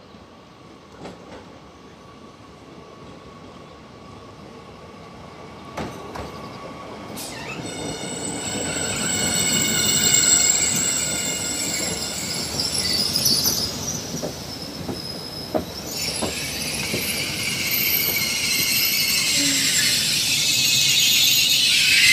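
Regional TER train pulling into the platform on a curved track, its wheels squealing with several high, steady tones that grow louder as it slows. The squeal slides down in pitch near the end.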